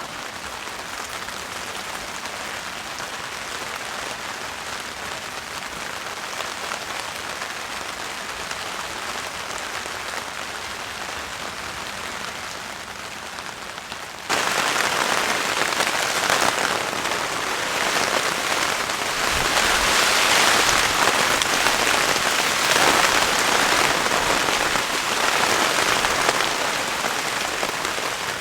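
Steady rain falling; about halfway through it jumps abruptly to a much louder, hissier downpour.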